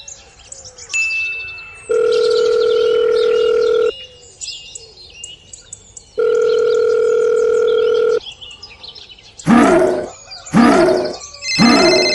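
Two long, steady electronic tones, each about two seconds, sound like a phone dial tone, with birds chirping between them. Near the end come two loud cries falling in pitch.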